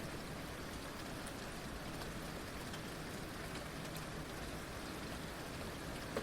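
Heavy rain falling steadily: an even hiss with scattered distinct drops, and one sharper drop hit near the end.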